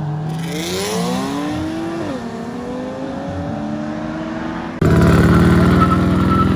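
Car engine accelerating: its pitch climbs for about two seconds, drops sharply at a gear change, then holds steady. Near the end a much louder engine sound starts abruptly.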